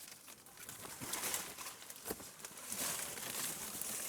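Rustling, with a few soft knocks about one, two and nearly three seconds in.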